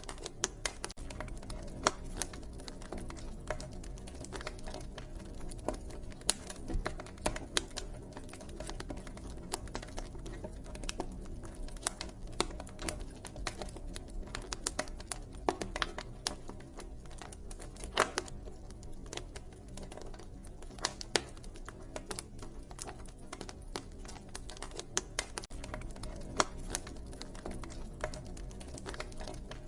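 Wood fire crackling, with irregular sharp pops, a few of them louder, over a low steady rumble.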